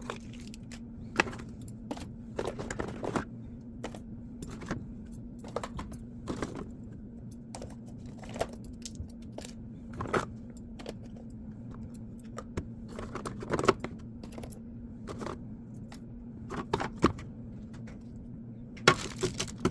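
Irregular clicks, taps and knocks of food containers and fridge items being handled and set down while a refrigerator is sorted, with a louder cluster of knocks near the end. A steady low hum runs underneath.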